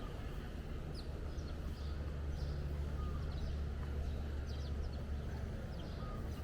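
Birds chirping, short scattered calls throughout, over a steady low rumble.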